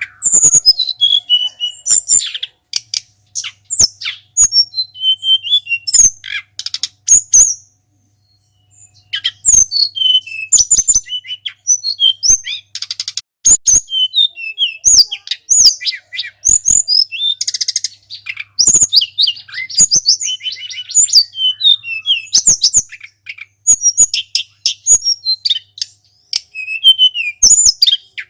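Sulingan gunung songbird singing busily: quick high whistled chirps and twittering trills, broken by sharp click-like notes, with a short pause about eight seconds in.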